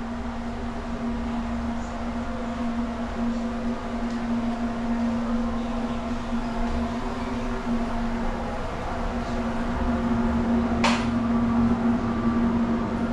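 Steady machine hum with a strong low tone and fainter higher tones, and a single sharp click about eleven seconds in.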